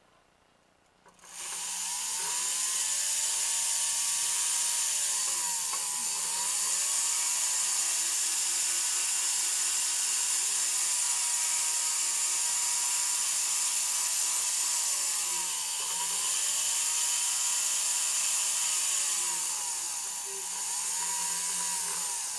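Jeweller's rotary tool switching on about a second in and spinning a polishing wheel against the side of a white gold necklace link. It runs as a steady whine with a high hiss, and the motor pitch dips and recovers several times as the wheel is pressed to the metal.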